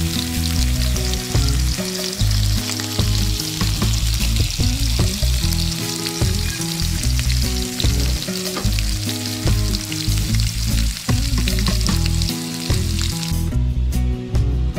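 Skinned whole frogs sizzling as they fry in hot oil in a metal pan, over background music with a steady bass line. The sizzling stops near the end, and a few sharp knife cuts on a wooden board follow.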